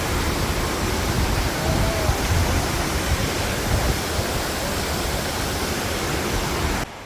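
Waterfall's steady rushing roar of falling water, which drops off suddenly near the end.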